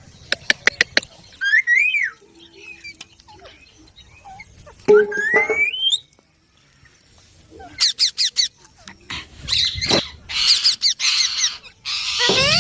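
Pet Indian ringneck parakeets calling: a quick run of clicks, a short squawk, a rising whistle-like call, then a rapid string of sharp chirps and harsh screeches near the end.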